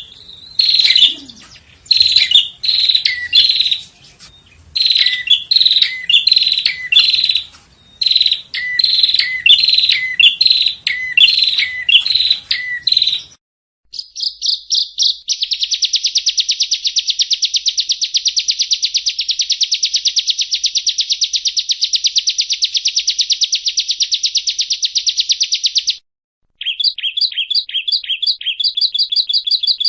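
Yellow-bellied prinia song played from a recording: bouts of loud chirpy phrases, each note dropping in pitch, repeated for about the first half. Then, after a short break, a long, very fast, even trill lasting about ten seconds, followed by a fast series of notes.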